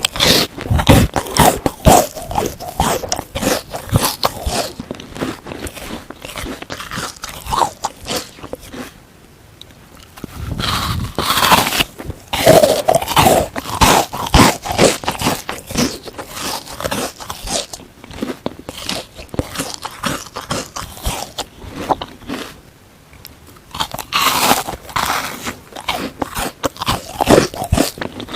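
A frozen sponge, foamy with toothpaste, being bitten and chewed: dense crunching and crackling, broken by two short pauses.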